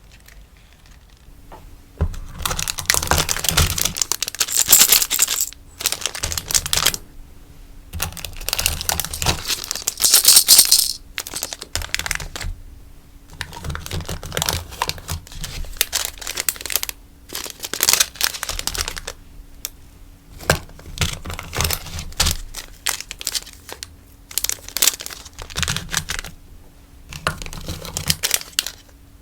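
Sticker packaging being handled and packed, rustling and crinkling in irregular bursts of a second or two, with light taps and clicks between them.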